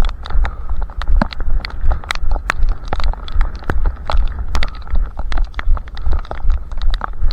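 A runner's footsteps in a steady rhythm of about two to three strides a second, heard through a head-strapped camera, with a heavy low rumble and scattered sharp ticks over them.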